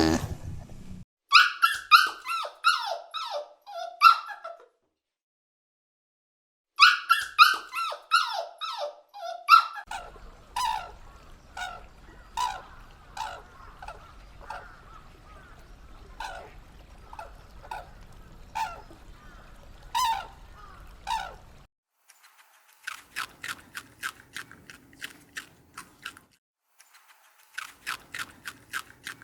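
An animal squeaking over and over, each squeak short and falling in pitch, in a few separate clips with brief silent gaps between them.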